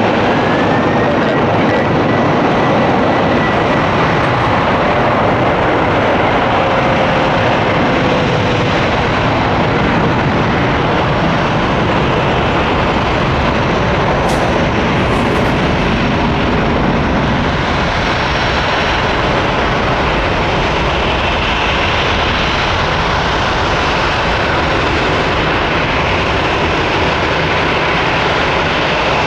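Jet airliner engines running loud and steady close by, with a high whine that climbs to a steady pitch in the first second or so.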